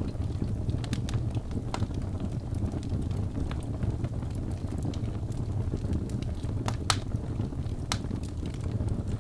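Wood fire burning in a fireplace: a steady low rumble of flames with scattered sharp crackles and pops from the burning logs, the loudest pop about seven seconds in.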